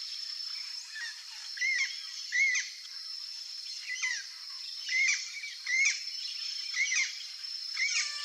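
Turquoise-fronted parrot (blue-fronted amazon) giving a series of short, arched squawking calls, about one a second, over a steady high-pitched background whine.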